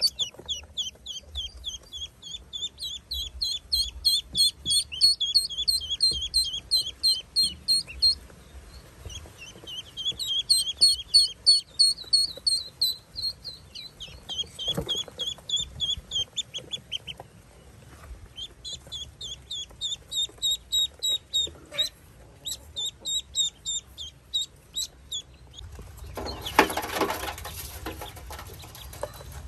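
Ducklings peeping: runs of short, high peeps, about three a second, broken by brief pauses. Near the end a louder, harsher call lasts about two seconds.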